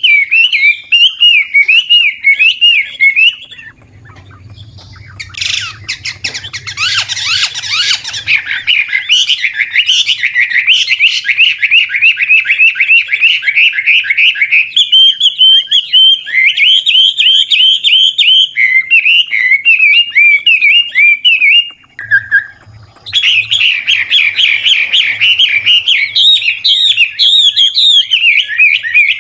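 Chinese hwamei, a mature wild-caught bird, singing a loud, continuous song of rapid repeated whistled notes and trills that keep changing phrase, with two short breaks, about four seconds in and again past the twenty-second mark.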